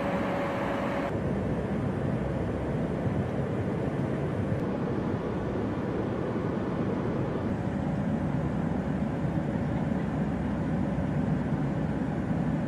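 Steady aircraft engine noise, a constant drone with no speech; the high hiss drops away abruptly about a second in.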